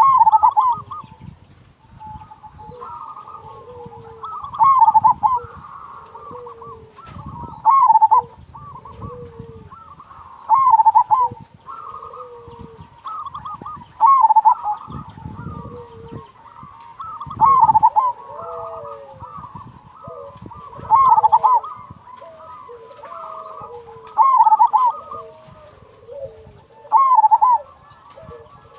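Zebra dove (perkutut) cooing, a loud phrase repeated about every three and a half seconds, with softer coos and calls between them.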